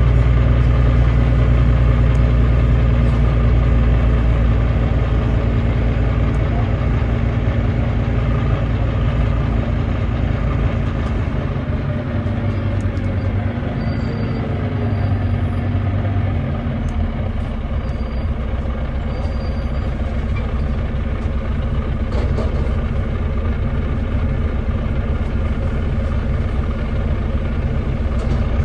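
Volvo D9B 9.3-litre six-cylinder diesel engine of a Volvo B9TL double-decker bus running under way, heard from on board as a steady low drone. It is heaviest at the start and eases a little after about five seconds.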